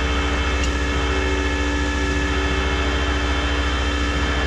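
Tow truck engine running at a steady speed, a constant low hum with several steady tones, as it works to pull a heavy non-running car.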